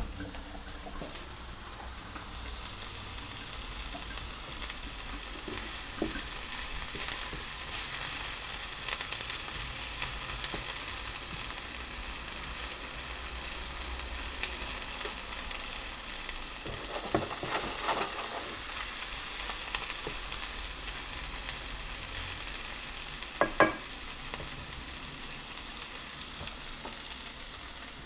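Food frying in a hot pan with a steady sizzle while it is stirred. There is a brief clatter a little past halfway and a sharp knock later on, the loudest moment.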